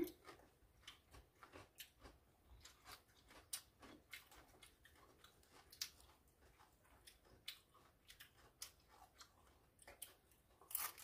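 Faint, irregular crunching clicks of raw deodeok root being chewed, with near-silent gaps between them.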